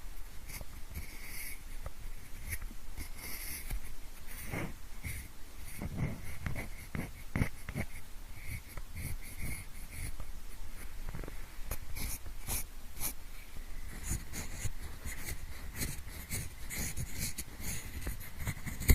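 Pencil scratching and rubbing right at the microphones, in imitation of an ear pick, heard in both ears at once. It makes an irregular run of small scrapes and ticks.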